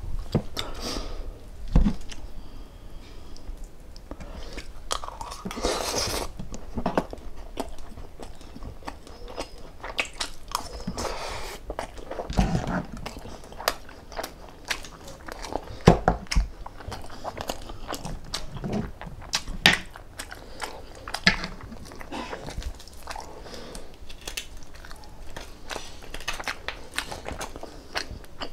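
Close-miked chewing and biting of food, with crunchy bites and many small irregular mouth clicks, broken by a few dull low knocks.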